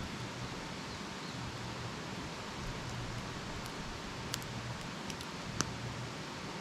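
Wood campfire burning with a steady hiss and rustle, and a few sharp pops of the wood, the loudest about five and a half seconds in.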